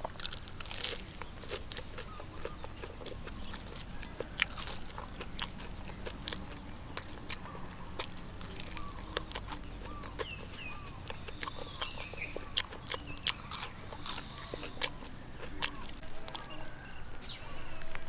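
Crunching and chewing of a deep-fried, breadcrumb-coated chicken leg, its crisp crust giving many sharp crackles as it is bitten and chewed.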